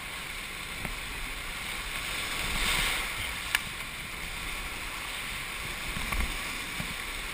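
River water rushing around a paddled raft, with wind buffeting the microphone. The rush swells about three seconds in, and a single sharp click comes soon after.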